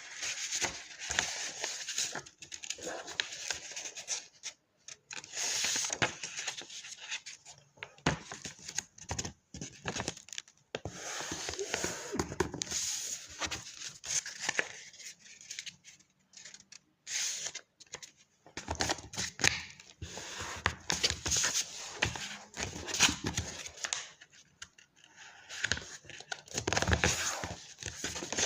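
A sheet of paper being handled and folded by hand: irregular rustling and crinkling, with sharp swipes as folds are creased, broken by short pauses.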